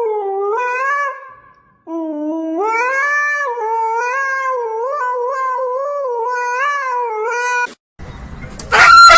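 A pet howling in long, wavering, drawn-out notes. One howl fades out about a second and a half in, and a longer one runs for nearly six seconds. Near the end it cuts off and a loud, noisy sound begins.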